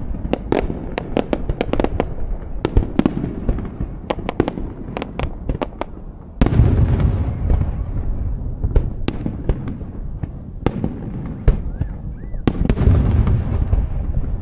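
Aerial fireworks going off: a quick run of sharp cracks and bangs, then about six seconds in a sudden heavy boom with rolling rumble, more scattered cracks, and another heavy boom near the end.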